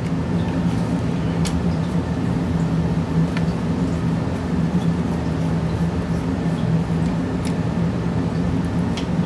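Steady machine hum with a low drone, like running cooling fans. A few faint light clicks sound over it, as from a small screwdriver working tiny screws.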